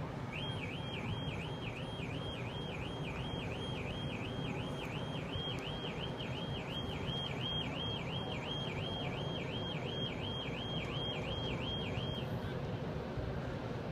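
An electronic siren warbles rapidly up and down in pitch, about two sweeps a second, and cuts off about a second before the end. A steady rumble of outdoor noise sits beneath it.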